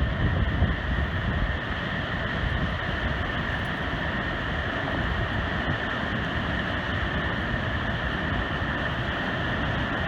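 Great Falls of the Passaic River roaring as a steady, even rush of falling water. Wind buffets the microphone with low rumbles in the first second or so.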